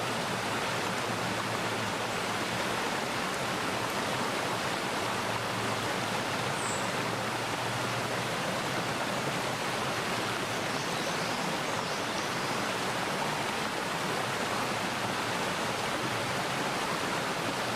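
Mountain valley stream flowing steadily, a constant rush of water. A faint, brief high chirp comes about seven seconds in.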